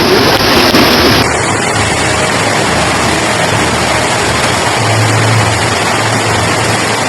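Loud, steady rushing noise of floodwater, with the sound changing abruptly about a second in and a low hum joining near the middle.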